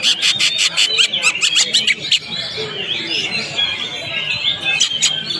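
Cucak ijo (green leafbird) singing in its aggressive 'fighter' style: a rapid string of sharp chips, about eight a second for the first two seconds, then a run of varied, warbling whistled phrases.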